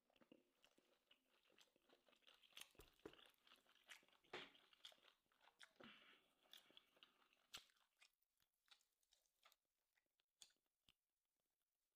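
Faint close-up chewing and crunching of grilled tomahawk steak with a crispy crust, with soft wet mouth clicks. Busiest in the first half, thinning out to scattered clicks after about eight seconds.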